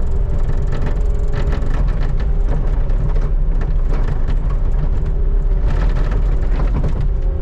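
Skid steer engine running with a steady low rumble while the bucket scrapes and crunches over packed snow and ice on pavement, with many sharp cracks and knocks.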